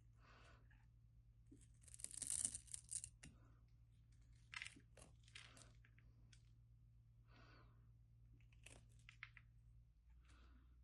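A knife carving a bar of soap: scattered short scraping and shaving strokes, the longest and loudest about two seconds in.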